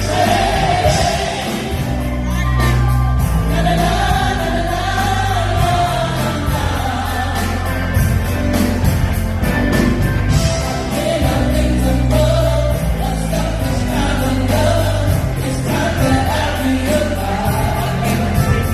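Gospel choir singing with a band: voices carry the melody over steady bass notes and a drum beat.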